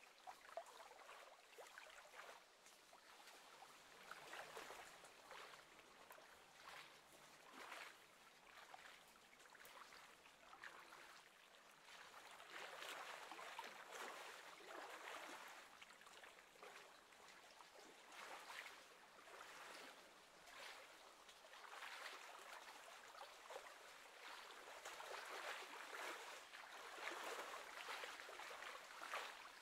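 Faint lapping of small waves on the lake surface, coming and going in uneven swells.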